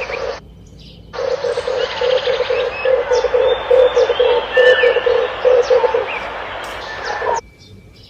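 Red turtle dove cooing: a fast run of low, evenly repeated coos, with small birds chirping higher over it. The sound cuts off abruptly about half a second in, comes back a little after a second, and cuts off again near the end.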